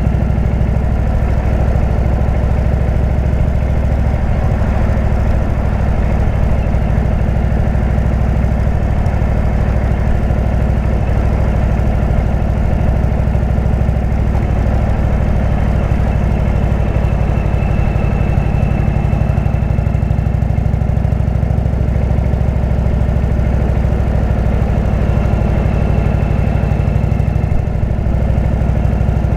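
Indian V-twin motorcycle engine running steadily through a Jekill & Hyde exhaust, its deep low note holding fairly even throughout.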